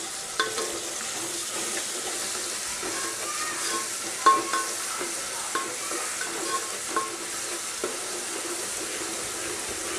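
Sliced onions and ginger-garlic paste sizzling in hot oil in a metal pot, stirred with a spatula that knocks and scrapes against the pot now and then, each knock ringing briefly; the loudest knock comes about four seconds in.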